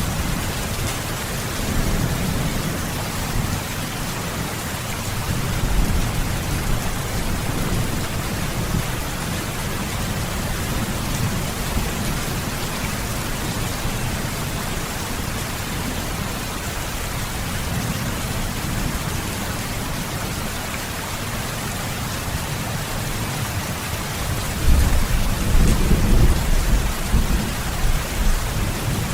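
Steady rain falling, with low rolling thunder rumbling beneath it that swells louder near the end.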